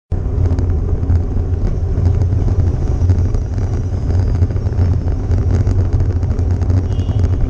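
Steady low rumble of a car driving, road and engine noise heard from a dash cam inside the vehicle, starting abruptly out of silence.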